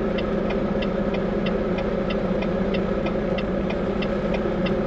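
Volvo VNL 860 semi truck's diesel engine running at low speed, heard from inside the cab, with a steady light ticking about four times a second over the drone.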